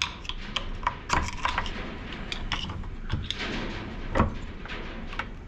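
Scattered metal clicks and knocks from hand work on a car gearbox being taken apart, with one louder knock about four seconds in.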